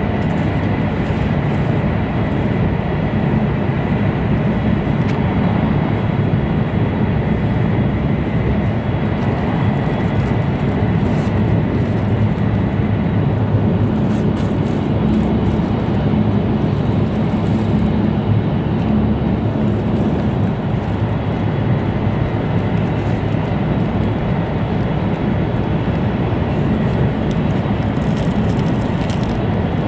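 Cabin noise of an E2 series Tohoku Shinkansen train running, heard from inside a passenger car: a steady low rumble of wheels and air. A faint high steady tone fades out about thirteen seconds in.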